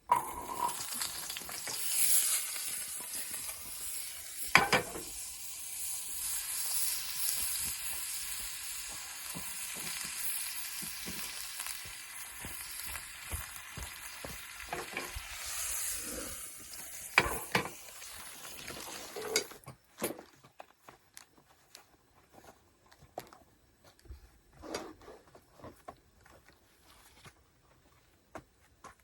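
Food sizzling in a frying pan, with clicks and scrapes of a utensil against the pan. The sizzling stops about two-thirds of the way through, leaving scattered clicks and knocks.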